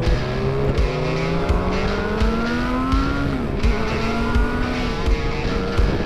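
Motorcycle engine accelerating, its pitch rising for about three seconds, dropping briefly at a gear change, then rising again.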